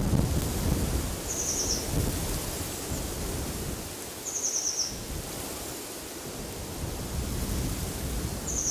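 Wind blowing in gusts, heavy in the low end, with a small bird repeating a short high trill of rapid notes three times, roughly every three to four seconds.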